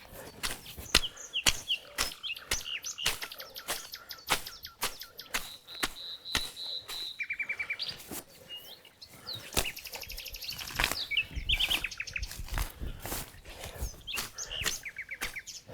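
Songbirds chirping and trilling, with a rapid repeated-note phrase and a high trill in the middle, over a run of sharp, irregular taps or knocks at about two a second.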